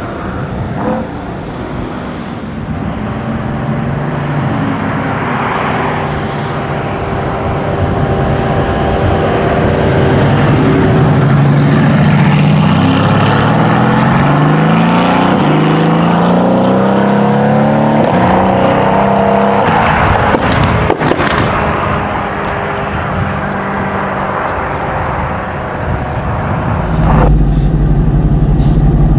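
Mercedes-AMG GT S twin-turbo V8, tuned to 760 hp, accelerating hard. Its pitch climbs again and again in the middle, dropping back at each gear change. Near the end the sound cuts abruptly to a steadier, deeper engine note.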